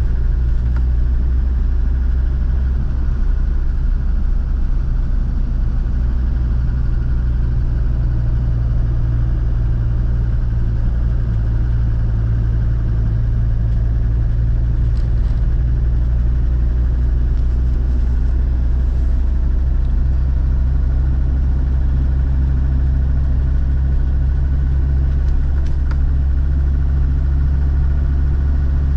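Land Rover Defender TD5's five-cylinder turbodiesel running steadily with a low drone.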